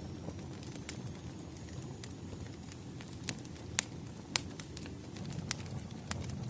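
Wood fire crackling: a steady low rumble with about seven sharp, irregular pops.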